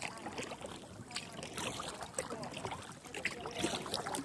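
Kayak paddling on calm water: paddle blades dipping and dripping, with scattered small splashes and light clicks.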